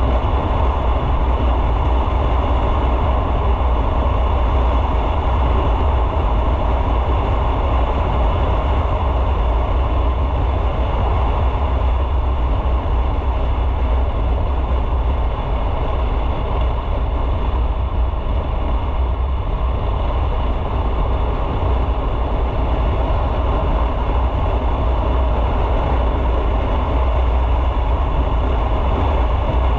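Motorcycle being ridden at a steady pace: an even engine drone mixed with road and wind noise, with no breaks or sharp sounds.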